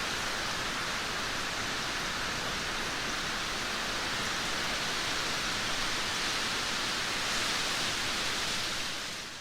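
Heavy downpour of rain: a steady, dense hiss of falling rain, fading out near the end.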